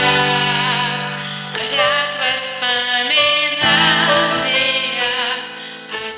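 Music: a woman singing with vibrato over an instrumental karaoke backing track.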